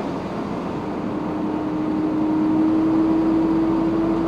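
Truck running along the highway: a steady engine drone over road noise, its pitch rising slowly as the truck gathers speed.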